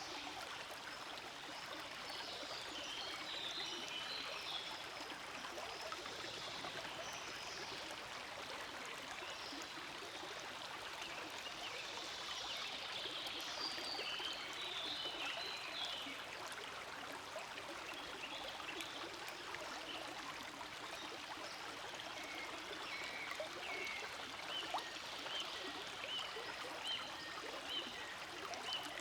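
Forest stream flowing steadily, with high short chirps coming and going over the water, including a run of evenly repeated ones near the end.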